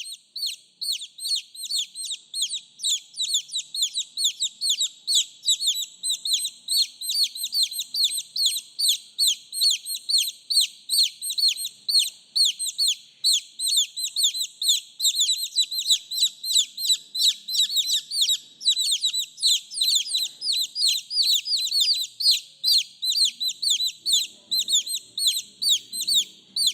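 Baby chicks peeping continuously, short falling high-pitched peeps about three or four a second, the calls of chicks calling for the mother hen.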